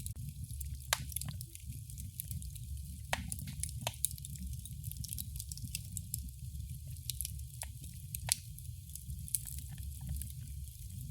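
Fireplace fire crackling: irregular sharp pops and snaps, a few of them louder, over a steady low rumble and a soft hiss.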